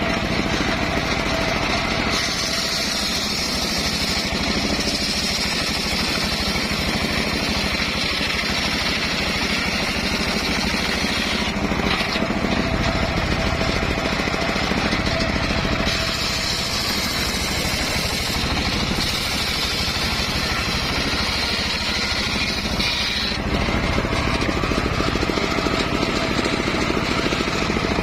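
Homemade engine-driven circular sawmill running steadily while its blade cuts a log, a steady engine drone under a high whine from the cut that dips briefly about 12 seconds in and eases after about 23 seconds.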